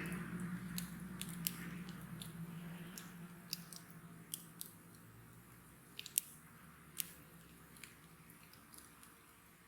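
Wood bonfire crackling, with scattered sharp pops. The strongest pops come around six and seven seconds in. Under them a low rush of burning fades away over the first few seconds.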